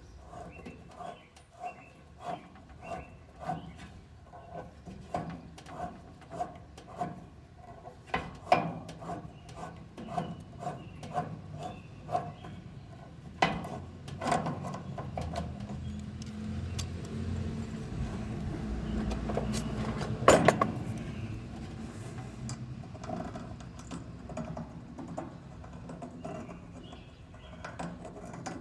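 Light clicks about twice a second, then a battery-powered press tool's motor running for several seconds as it builds pressure on an RLS ZoomLock press fitting, ending in a loud sharp snap as the press cycle completes about two-thirds of the way through.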